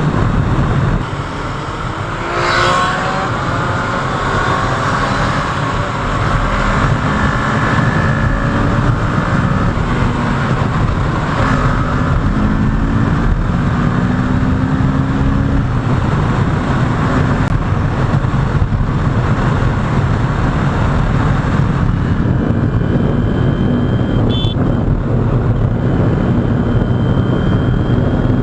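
Kawasaki Ninja 650's parallel-twin engine running under way, with steady wind rush over the rider's mic. Its note climbs in steps through the middle, and other vehicles swish past about two and twelve seconds in.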